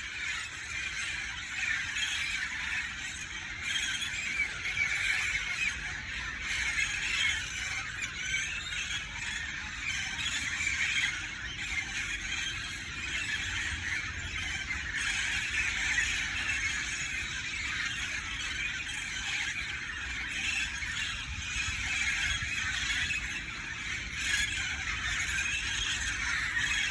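A flock of parrots calling all at once, many shrill overlapping squawks in a continuous din with no pause.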